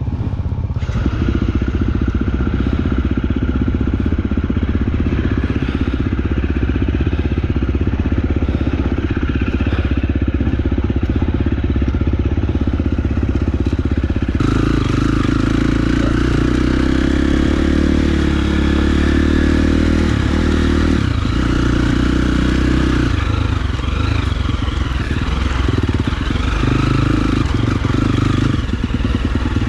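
KTM enduro dirt bike engine running as it is ridden along rough singletrack at fairly steady revs. The sound changes abruptly about halfway through.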